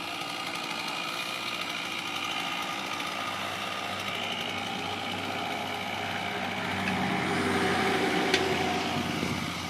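Chainsaw engine running steadily during a tree cut, growing louder about seven seconds in, with one sharp click shortly after.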